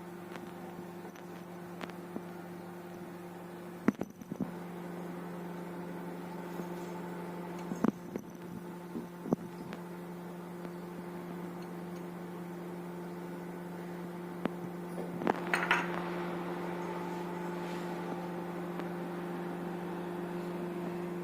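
IFB convection microwave oven running with a steady hum. A few sharp clicks and clinks of the door and tray being handled come at about four, eight and nine seconds in, with a short cluster of them about fifteen seconds in.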